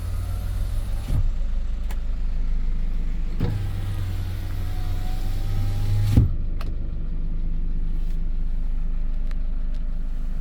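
Hyundai Porter II truck's diesel engine idling steadily, while an electric window motor whines for about three seconds in the middle, stopping with a knock at the end of its travel.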